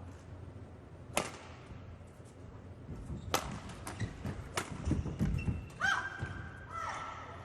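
A badminton rally: racket strings cracking against the shuttlecock three times, a second or more apart, with players' thudding footwork on the court. Near the end come a few short high squeaks, typical of shoes on the court floor.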